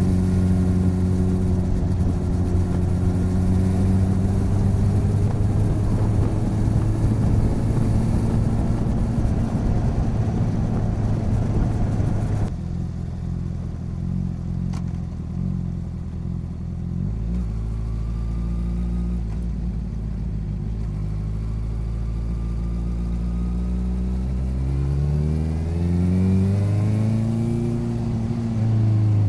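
Motorcycle engine running on the move, picked up by a recorder mounted on the side of the bike, with a steady engine note and rushing wind. About halfway the wind noise drops away suddenly while the engine keeps running, and near the end the engine speed rises and falls as the throttle changes.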